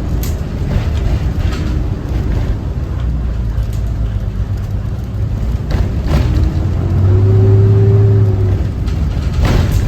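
Cummins ISB 6.7 inline-six diesel engine of a school bus running while the bus is driven, with a steady low rumble and scattered clicks and rattles. About seven seconds in a louder steady hum swells for a second and a half, then fades.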